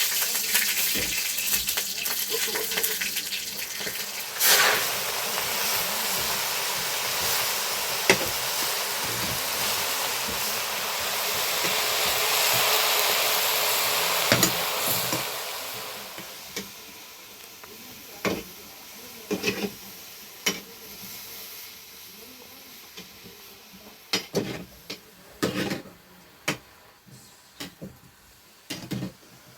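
Food tipped into hot oil in a pan, sizzling loudly at once, the hiss dying down after about fifteen seconds. Scattered clinks and knocks of stirring in the pot follow.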